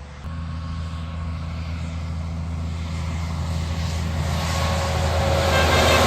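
A heavy truck approaching, its engine hum steady and low while its tyre and road noise swells louder toward the end as it draws near.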